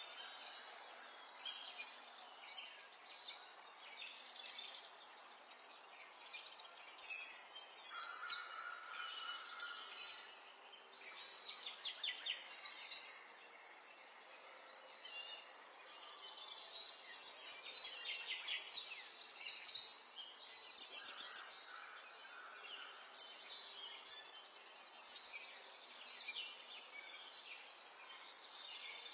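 Songbirds singing: repeated bursts of fast, high-pitched chirping trills, some overlapping, over a faint steady background hiss.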